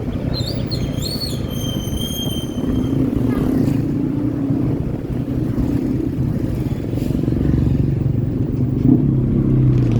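Motorcycle engine running steadily at cruising speed, with wind and road noise. A high-pitched tone wavers and then holds for about two seconds near the start.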